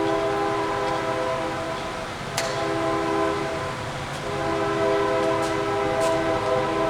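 Kearney and Trecker No. 2 Model D rotary head milling machine running under power, its drive giving a steady multi-tone gear whine as the power take-off turns the rotary table. The whine dips twice and comes back, and a few sharp clicks sound over it.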